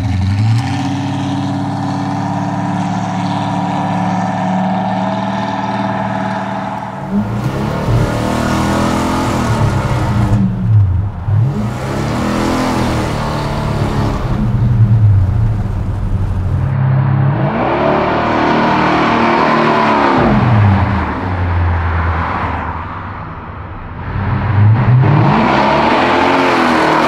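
Built Buick big-block V8 of a 1976 Buick Electra, making close to 600 hp. It runs steadily at first, then revs up and drops back several times as the car accelerates.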